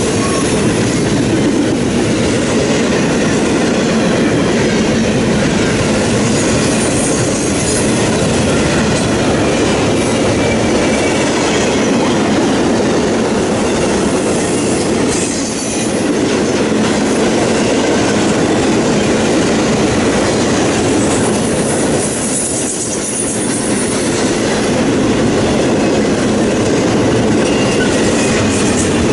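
CSX intermodal freight train's double-stack container cars and trailer flatcars rolling past: a steady loud rumble and clatter of steel wheels on the rails, dipping briefly twice.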